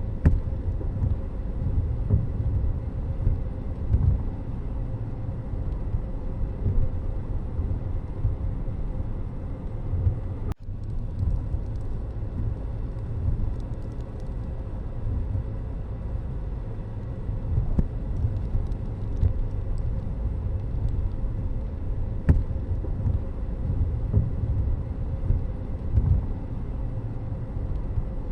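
Steady low rumble of a vehicle moving along a road, with a brief dropout about ten seconds in and a single sharp click a little over twenty seconds in.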